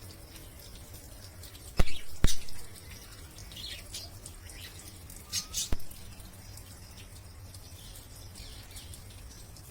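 Parrots chirping in short, high calls, with sharp knocks about two seconds in and a few more just before the six-second mark.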